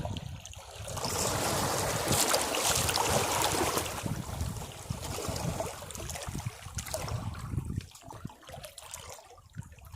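Sea waves breaking on rocks: a wash of surf swells about a second in, then fades away over several seconds above a low rumble.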